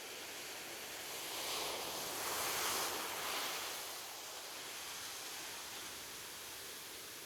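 Ocean waves breaking on a beach: a steady wash of surf that swells as a wave breaks about two to three seconds in, then eases back into a softer hiss.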